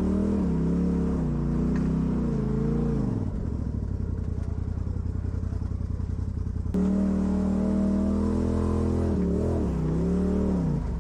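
Off-road vehicle's engine revving up and down on the throttle. It drops back to a lumpy idle about three seconds in, comes back on the throttle suddenly about seven seconds in, and falls off again near the end.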